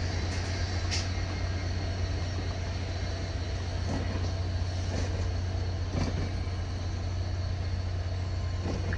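Steady low vehicle rumble, with a few faint knocks.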